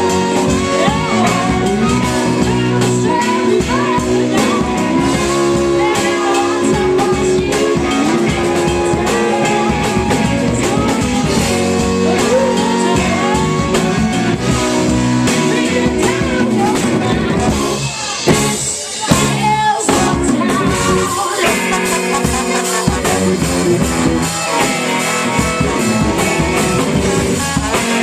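Live rock band playing, with guitar and drum kit, in a passage without lyrics; the music drops out briefly about two-thirds of the way through, then comes back in.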